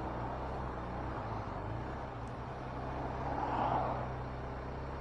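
BMW R1250 RT's boxer-twin engine running steadily, heard under wind and road noise. A brief swell of noise comes about three and a half seconds in.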